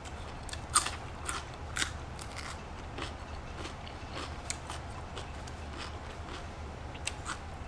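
Crisp crunches of raw vegetables being bitten and chewed: a run of sharp crunches in the first three seconds, the loudest about a second in, then a couple more near the end, over a low steady hum.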